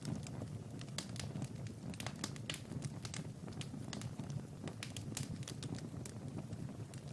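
Wood fire in a fireplace crackling: irregular sharp pops and snaps, several a second, over a low steady rumble of the burning fire.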